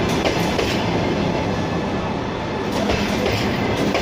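Double-deck passenger train rolling past close by: a steady rumble of the carriages with the wheels clicking over rail joints every so often.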